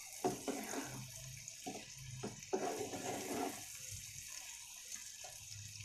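Raw mango pieces frying in oil in a pan, sizzling steadily while a wooden spatula stirs them, with a few short scraping strokes against the pan in the first half.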